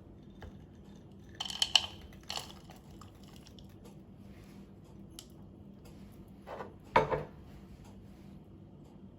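Kitchen dishes and utensils being handled: a few short clinks and clatters about a second and a half in, and again near seven seconds.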